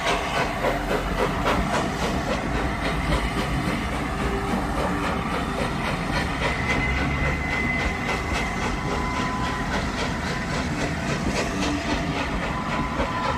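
Train hauled by the A4 steam locomotive Sir Nigel Gresley running past, its wheels clicking rhythmically over the rail joints, with a light hiss. A thin steady high tone sounds for a few seconds partway through.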